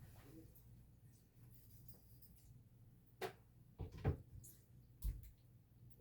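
Kitchen handling sounds while raw chicken thighs are cleaned: a few separate knocks and taps, the loudest about four seconds in, over a low steady hum.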